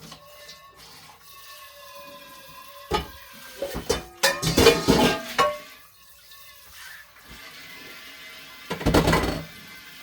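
Kitchen tap running into the sink while dishes are washed, with a few louder bursts of splashing and dishes knocking, the biggest in the middle and just before the end.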